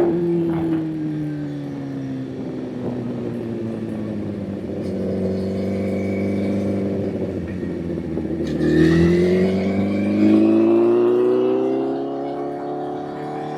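Honda CBR1000 inline-four motorcycle engine on the road: the engine pitch falls slowly as the bike slows, holds steady for a few seconds, then rises sharply about two-thirds of the way in and keeps climbing as the bike accelerates.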